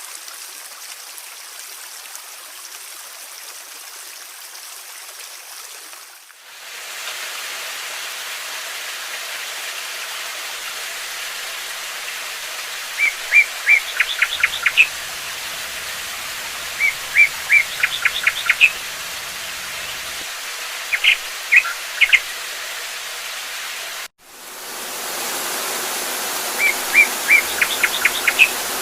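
Steady rushing water, with a small songbird repeating a short phrase over it: two or three clear notes followed by a quick trill, about every four seconds. The water sound changes about six seconds in and breaks off briefly near the end.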